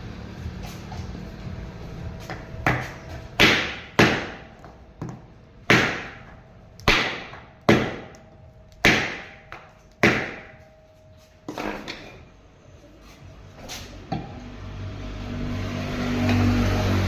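Hammer blows during a submersible pump repair: about eight sharp strikes at an uneven pace, each dying away quickly, then a couple of fainter knocks. A low steady hum builds near the end.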